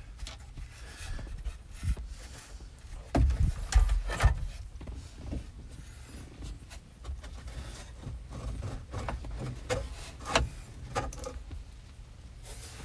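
A flexible HVAC duct hose being worked by hand onto its outlet under a truck dashboard: irregular rubbing, scraping and knocking, with a few louder thumps about three to four seconds in.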